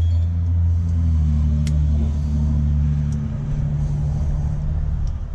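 A steady, low engine rumble, like a motor vehicle running, that eases off near the end. Two light metallic clicks sound about a second and a half and three seconds in.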